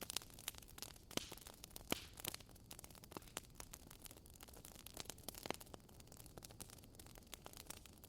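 Wood fire crackling in a fireplace: irregular sharp pops and snaps, a few of them louder, over a soft low rumble.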